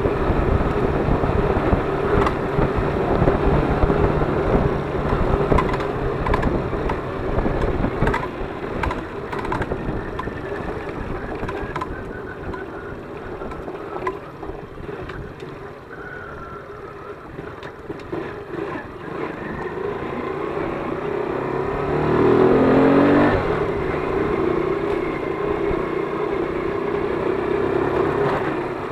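ZiD 50-01 moped engine running while being ridden. The revs fall off for a stretch in the middle, then rise again in a short climb about three-quarters of the way through.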